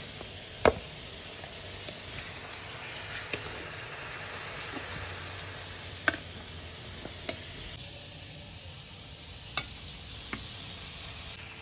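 Oil sizzling steadily as lightly fried chicken pieces are lifted out, with about six sharp clinks of a steel spoon against steel pan and plate. The sizzle softens a little about eight seconds in.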